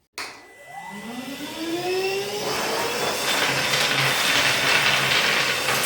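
Parkside PWDA 20 Li A2 cordless wet and dry vacuum switched on as a blower: the motor spins up with a rising whine over about two seconds, then runs at full speed with a loud, steady rush of air through the narrow nozzle.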